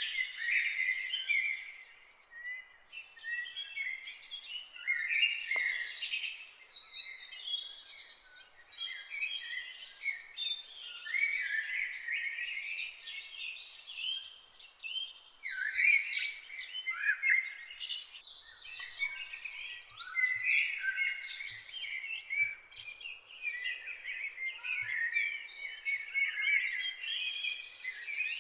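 Morning chorus of many songbirds singing at once: a dense, continuous mix of overlapping high chirps, trills and quick sliding notes.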